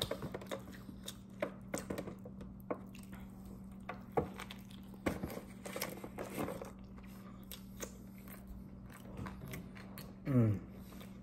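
Close-up mouth sounds of a person biting and chewing a fish sandwich: irregular wet clicks and crunches over a steady low hum. A brief falling voiced sound, like an "mm", comes near the end.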